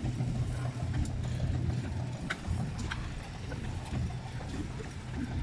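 An engine running steadily with a low hum, and a few faint clicks over it.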